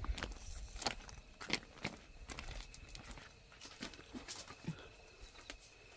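Irregular scattered knocks and clicks, with a faint steady high tone underneath.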